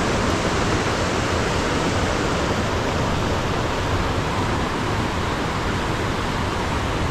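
Linville River rushing over and between large boulders: a steady, even roar of flowing water.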